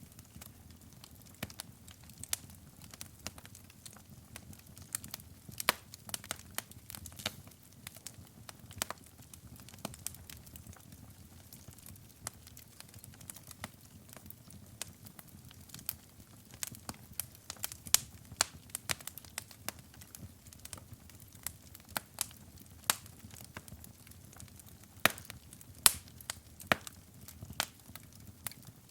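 Wood fire burning in a fireplace: irregular sharp crackles and pops over a low, steady rumble of flames, with a few louder pops scattered through.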